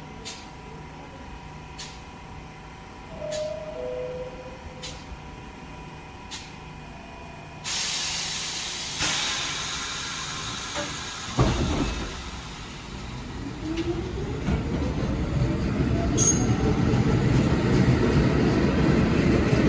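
R46 subway train: a sudden hiss of air about eight seconds in, then a heavy rumble that starts a few seconds later, with a whine rising steadily in pitch as it gathers speed and grows louder toward the end.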